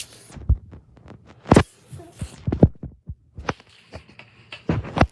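A handful of irregular knocks and thumps, as of objects being handled and set down on a hard surface, loudest about a second and a half in and again near the end.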